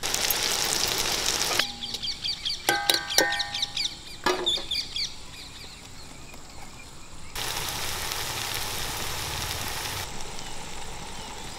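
Onions, chillies and tomatoes sizzling in an iron kadai over a wood fire, then a chicken clucking with small birds chirping for a few seconds. The sizzling comes back from about seven and a half seconds to ten.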